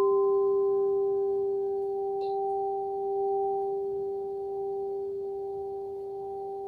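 Singing bowl struck just at the start and left ringing: one steady, pure tone with a few higher overtones, slowly fading.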